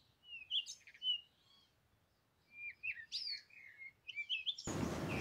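Small birds chirping in several short bursts of quick, gliding chirps with gaps between them. A broader outdoor background noise comes in near the end.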